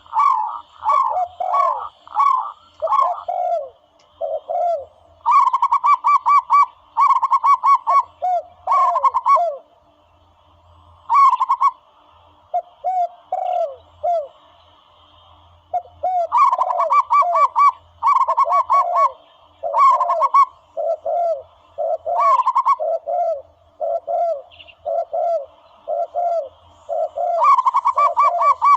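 Recorded zebra dove calls played as a hunting lure: bursts of quick staccato cooing notes alternating with single falling coos, two calling lines overlapping, with a short lull about ten seconds in.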